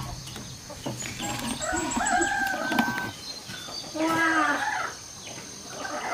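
Chickens calling: hens clucking and a rooster crowing, in two stretches of calls starting about one and a half and four seconds in.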